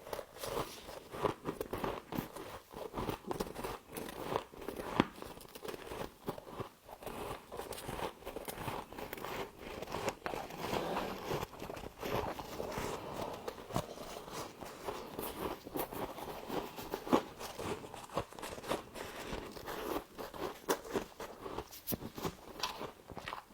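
Humidifier frost being bitten and chewed close to the microphone: a dense, irregular run of crisp crunches and crackles.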